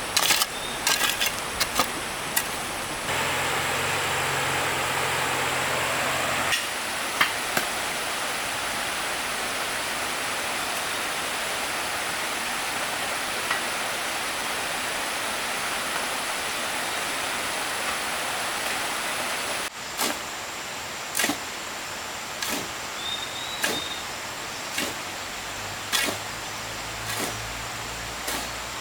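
Steady rushing noise of flowing water, with scattered sharp knocks. The level and tone of the rushing jump abruptly three times.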